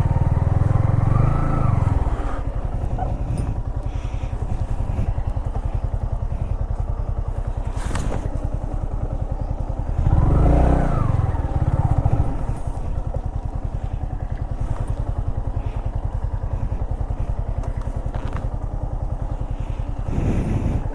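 Motorcycle engine running under way, its pitch rising and falling twice, near the start and about halfway through, as the throttle is opened and eased off.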